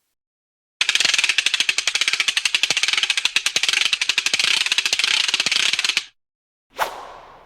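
A fast, loud rattle of clicks lasting about five seconds, which stops abruptly, then a single sharp hit that rings away.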